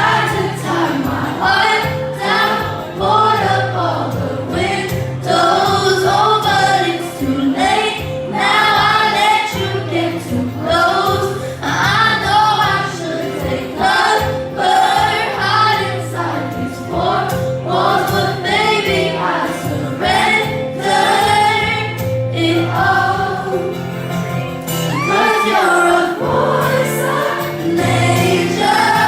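Live pop song: a female lead vocal over the band's music with a steady, pulsing bass line, and many voices singing along with her.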